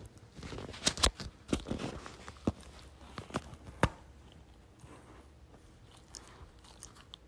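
Puppy chewing and crunching, with a run of sharp cracks and clicks in the first four seconds, then only faint ticks.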